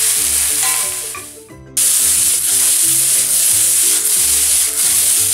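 Diced aubergine sizzling as it fries in olive oil in a stainless steel pan, stirred with a wooden spatula and then tossed. The sizzle drops away briefly about a second and a half in, then comes back just as loud, with soft background music underneath.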